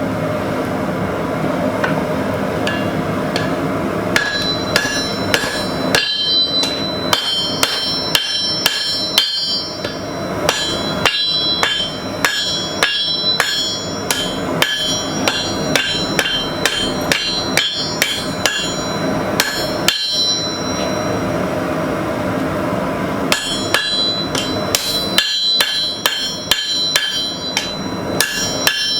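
Hand hammer striking hot carbon steel bar on an anvil, quick blows of about three a second with a clear metallic ring after each, in two runs with a pause of a few seconds between them. A steady forge noise runs underneath.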